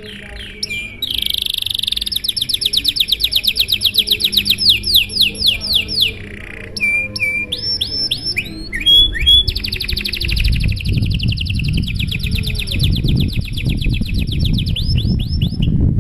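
Canary singing a long song of fast trills: rolls of quickly repeated sweeping notes, a short passage of varied notes about halfway, then another long rapid trill that stops just before the end. A low rumbling noise runs underneath in the second half.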